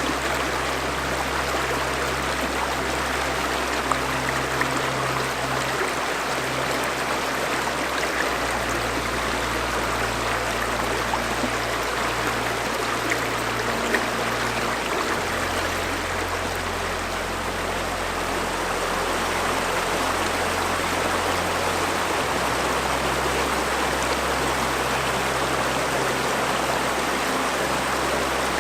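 River water flowing steadily, a constant rushing and trickling. Under it, soft low sustained music tones change pitch every seven seconds or so.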